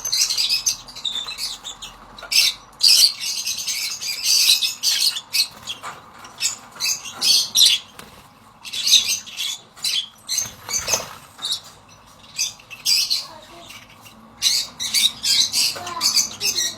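Rosy-faced lovebirds chattering, with many short, high-pitched squawks in quick irregular bursts.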